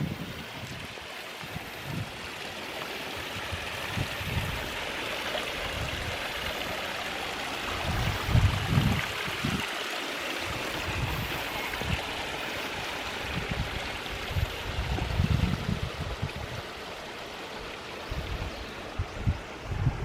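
Wind buffeting the microphone in irregular low gusts, over a steady rushing hiss.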